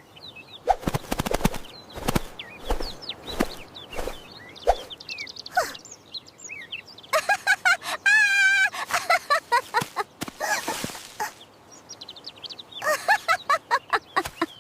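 Cartoon bird sound effects: high chirps and tweets, with a warbling trill about halfway through and a run of quick chirps near the end, mixed with short sharp clicks.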